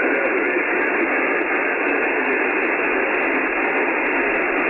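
Steady hiss of an Icom IC-9700 receiving single-sideband on 70 cm, static filling the narrow voice passband with no clear signal in it, as the aircraft-reflected signal fades out.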